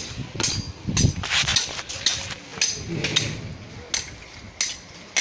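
Wooden sticks and branches knocking and clattering as they are handled and piled: about ten sharp, irregular knocks.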